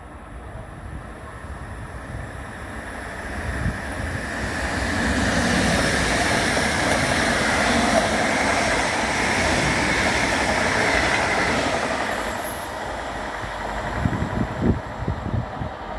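A train running past on the station tracks: rolling and rail noise builds over a few seconds, holds steady, then fades. Low thumps of wind on the microphone come near the end.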